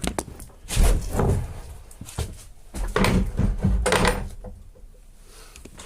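Wooden knocks and thumps, like a hatch or cabin door being handled, in two loud clusters: one about a second in and another around three to four seconds in, then quieter clatter.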